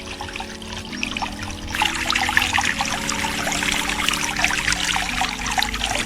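Running water splashing and trickling, growing much louder about two seconds in. Under it lie soft, steady sustained tones.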